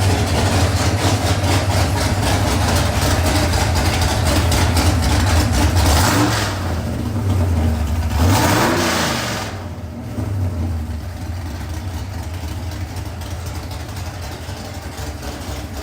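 Stack-injected 363 cubic-inch small-block Ford V8 running on an engine dyno. It holds a steady fast idle, gives a short throttle blip about six seconds in and a fuller rev that rises and falls about eight and a half seconds in, then settles to a quieter idle.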